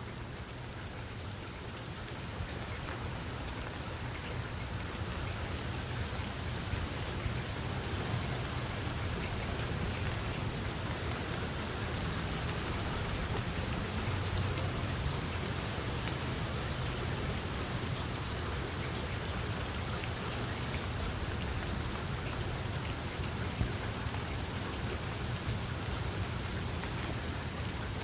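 Steady rain falling: an even hiss of drops with scattered individual ticks and a low rumble underneath, growing slightly louder over the first several seconds and then holding steady.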